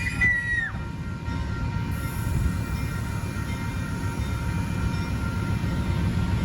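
Train passing over a grade crossing: a steady low rumble of railcars on the rails. The end of a train horn blast drops in pitch and cuts off within the first second.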